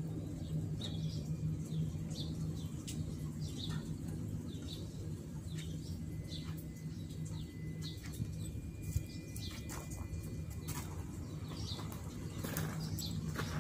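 Small birds chirping at short intervals over a steady low machine hum, with a few sharp clicks near the end.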